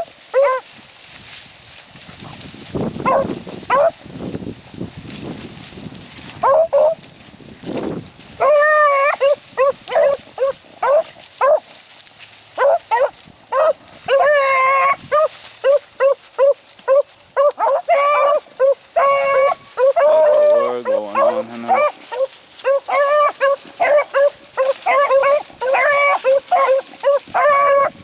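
A pack of beagles baying, repeated high bawls and yelps that come only now and then at first and run almost without a break from about eight seconds in: the hounds giving tongue as they run a rabbit.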